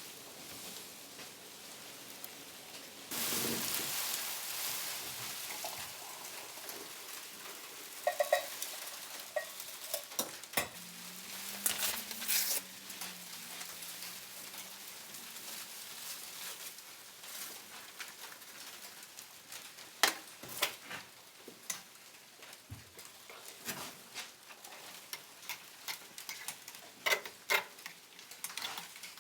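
A spoon stirring, clinking and tapping in a mug of hot cocoa, over a steady hiss, with a louder rush of noise a few seconds in.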